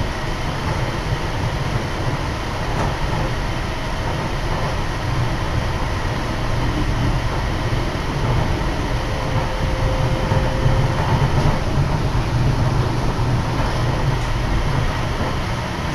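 Inside a Nippori-Toneri Liner car, a rubber-tyred automated guideway train, running along its elevated guideway: a steady low rumble of cabin noise, with a faint whine near the middle.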